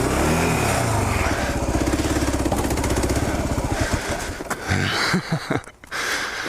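Kawasaki KLR650's single-cylinder engine running, with a brief rev up and down about half a second in. Its sound then turns uneven and quieter after about five seconds.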